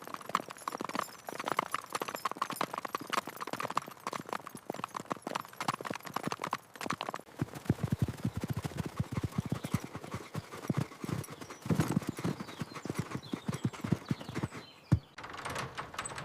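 A mare's hooves clip-clopping as she is led at a walk, a steady run of hoofbeats that stops shortly before the end.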